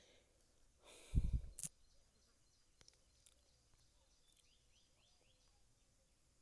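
Faint birds chirping in the background, a run of short falling chirps. About a second in, one brief loud noise close to the microphone.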